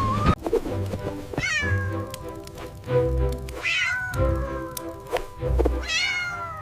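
A cat meowing three times, each call gliding down in pitch, over background music with a steady bass line.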